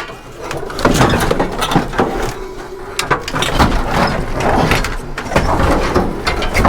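Irregular knocks, clunks and scraping as a heavy scrap air conditioner unit is handled and shifted about.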